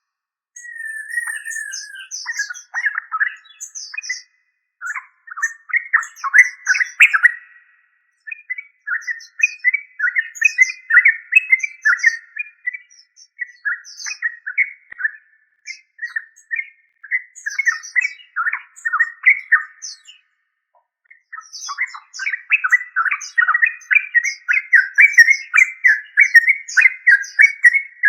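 Yellow-vented bulbul singing: phrases of quick, bubbly chattering notes, broken by short pauses, with the longest about twenty seconds in.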